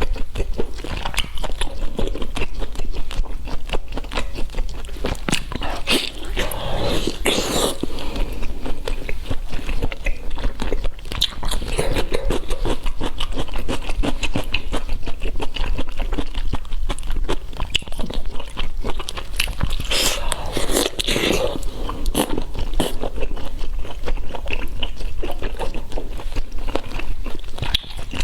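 Steady, rapid crunching and chewing of food, with louder bursts of crunching about a quarter of the way in and again about two-thirds through.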